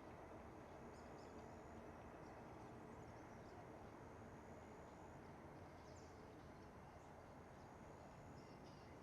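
Faint, high-pitched bird calls: short thin chips scattered through, over steady low background noise.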